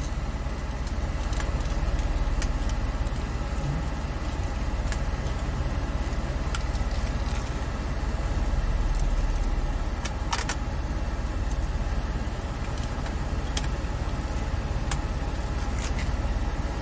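Steady low rumble of a 1994 Mercedes-Benz W124's engine idling, heard inside the cabin, with scattered small plastic clicks and taps as a phone holder on the centre console is handled; a sharper click comes about ten seconds in and another at the very end.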